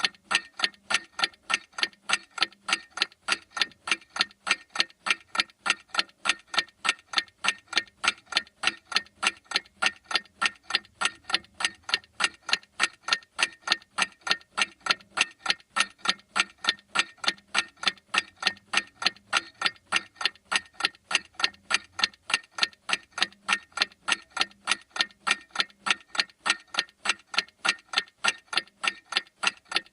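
Clock ticking: a fast, perfectly even run of sharp ticks that never changes.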